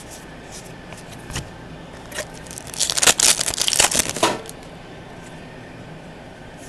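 Trading cards and their pack wrapper being handled: a few light taps, then a crinkling rustle lasting about a second and a half in the middle.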